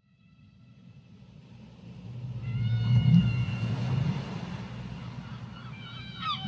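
Whale calls: low moaning tones with higher whistling overtones, fading in from silence and loudest about three seconds in, with a short sweeping cry near the end.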